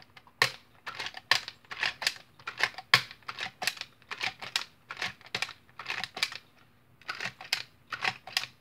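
Quick series of sharp plastic clicks, a few a second and uneven, with a short pause near the end: the Nerf Hammershot's mechanism and 3D-printed 7-shot cylinder being worked by hand.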